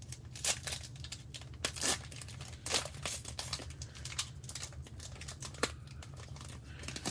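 Plastic trading card pack wrapper crinkling and tearing as it is opened, a string of sharp crackles.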